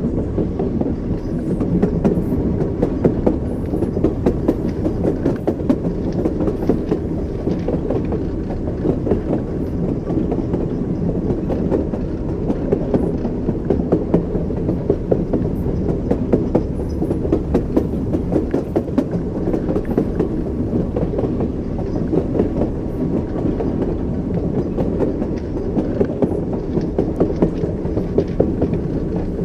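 Train wheels running on the rails: a steady low rumble with the repeated knock of wheels over rail joints, clickety-clack.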